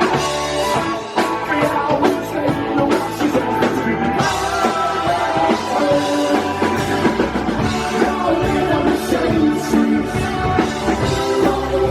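Live rock band playing loudly, with a steady drum beat under sustained guitar chords and some singing.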